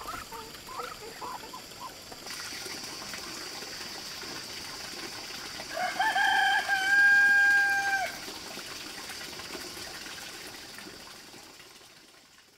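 Chickens clucking, then a rooster crowing once, a call about two seconds long some six seconds in. A steady high hiss runs underneath, and everything fades out near the end.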